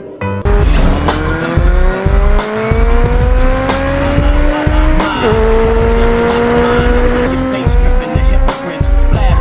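Car engine accelerating hard, its pitch climbing steadily for about four seconds, then dropping sharply as it shifts up and holding nearly steady, with tyres squealing.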